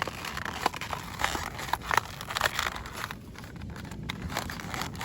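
Toy packaging being torn open by hand: irregular crinkling and sharp crackles of plastic and card, coming thickest in the first three seconds.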